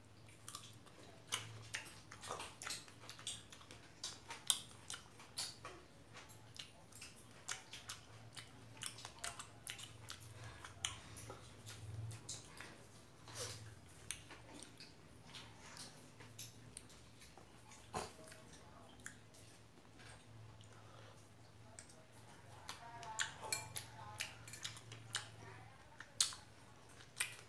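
A person chewing fresh strawberries up close, with many irregular short clicks and smacks from the mouth, over a faint steady low hum.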